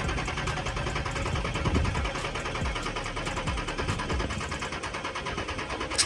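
Car engine being cranked on its starter motor, a fast, even mechanical chatter that does not catch. A single sharp click comes near the end.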